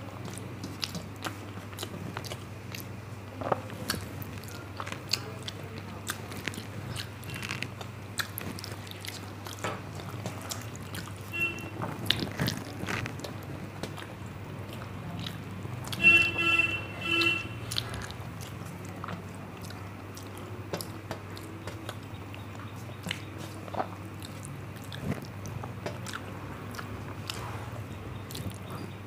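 Close-up eating sounds of a meal of rice and curry: steady chewing with wet mouth clicks and smacks, over a low steady hum. About 16 seconds in come two short pitched honks in quick succession, the loudest sound.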